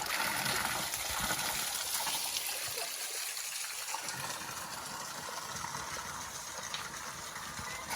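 Mountain spring water gushing steadily from a spring-fed shower spout in a strong, continuous flow.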